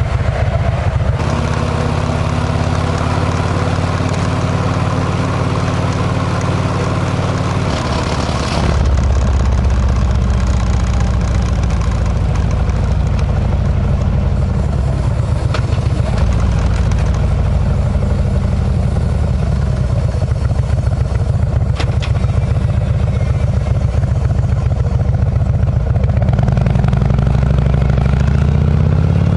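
Harley-Davidson V-twin motorcycle engine running through a Kesstech exhaust, a steady even note. About nine seconds in, the sound shifts abruptly to a louder, deeper note. Near the end the pitch rises as the engine revs up.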